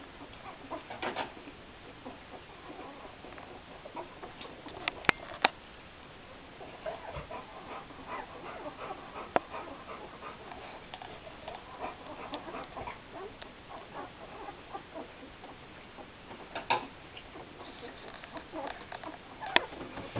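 Litter of nine-day-old Greater Swiss Mountain Dog puppies making small squeaks and grunts, with a few sharp clicks about five seconds in.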